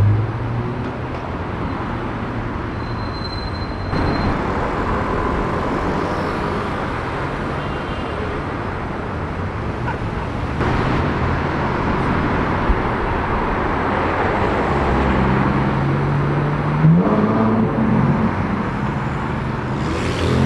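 Busy city street traffic with supercar engines running at low speed. One engine revs briefly, rising in pitch about three-quarters of the way through. Another engine starts to accelerate at the very end.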